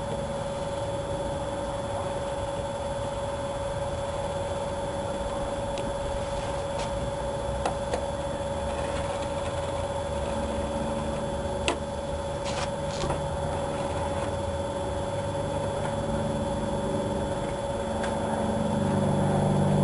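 A steady mechanical hum with one constant tone, with a few light clicks scattered through it. Near the end a vehicle engine grows louder.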